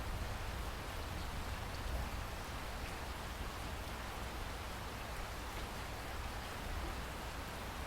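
Steady rain falling in a rainforest, an even hiss of drops on foliage with a low rumble underneath and faint scattered drop ticks.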